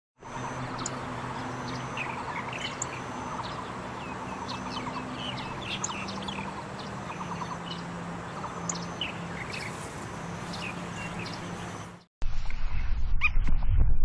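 Several wild birds chirping and calling: many short chirps, fast trills and down-slurred notes over a steady background hiss and a low hum. The birdsong cuts off about twelve seconds in. After a brief gap, a much louder, noisier sound with a low rumble follows.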